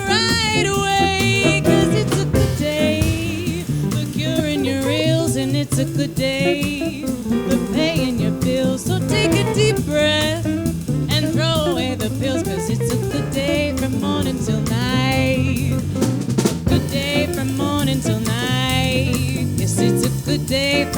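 A live jazz combo of guitar, piano, bass and drum kit playing an upbeat swing tune, with a lead line that bends and wavers on top and frequent snare and rimshot hits from the drums.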